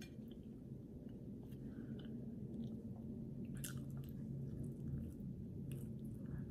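A person chewing sliced ham with the mouth close to the microphone: soft, wet chewing and a few faint mouth clicks.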